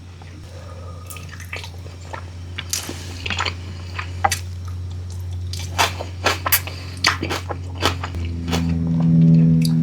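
Close-up mouth sounds of someone eating: wet chewing with sharp smacking clicks. About eight seconds in, a steady low hum starts underneath.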